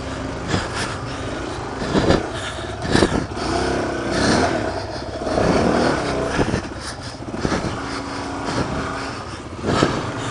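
Suzuki DR-Z400 dual-sport motorcycle's single-cylinder engine revving up and down over rough, rocky ground, with several sharp knocks.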